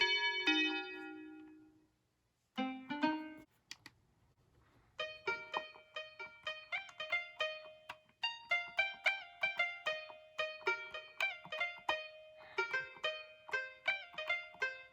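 Akai MPK Mini Play MK3 mini keyboard being played through one of its built-in sounds, short quickly fading notes. A few notes die away, there is a short pause with a brief cluster of notes, then quick runs of notes from about five seconds in.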